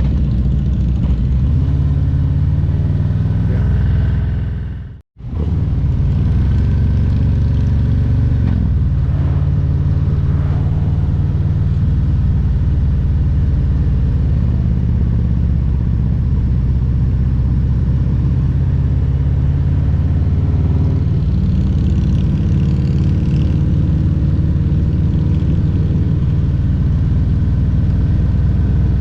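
Harley-Davidson Road Glide Special's Milwaukee-Eight 114 V-twin running on the road, its pitch rising and falling a little with the throttle. The sound drops out for a moment about five seconds in.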